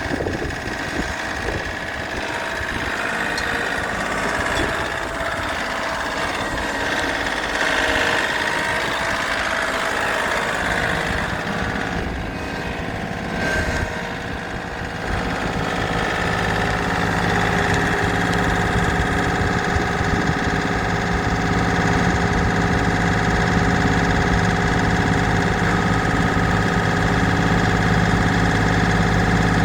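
2015 John Deere 3032E compact tractor's three-cylinder diesel engine running, uneven at first, then settling into a steadier, slightly louder run from about halfway through.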